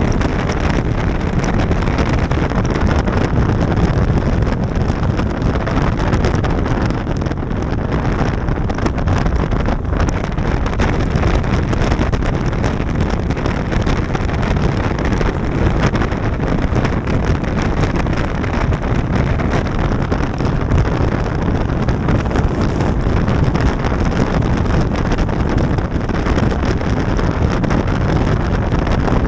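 Wind rushing over the microphone of a moving motorcycle, with the bike's engine and road noise underneath, steady throughout.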